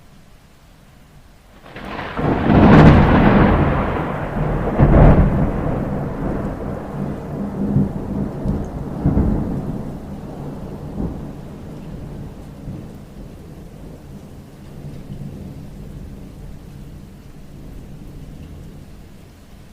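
Steady rain, with a sudden loud clap of thunder about two seconds in and a second loud peak a couple of seconds later. The thunder then rumbles on and fades back into the rain over about ten seconds.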